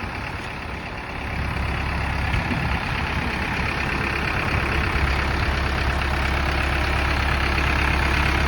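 Iseki NT 554 tractor's diesel engine running steadily while its raised rear rotavator spins freely out of the ground. The engine note steadies and grows a little louder about a second and a half in.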